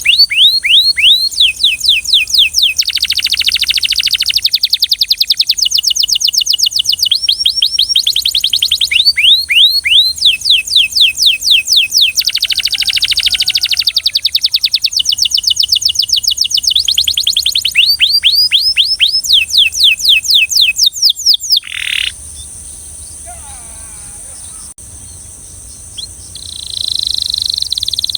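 Belgian canary singing: long, rapid trills of repeated down-slurred whistled notes, broken by buzzier rolling passages. The song stops for a few seconds past the middle, leaving only softer, scattered notes, then starts up again near the end.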